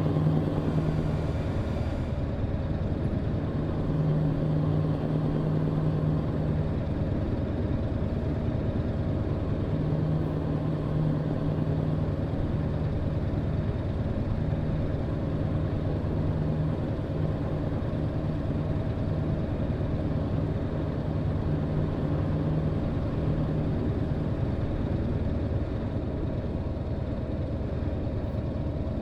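Truck engine and road noise while driving: a steady drone with a low, even hum.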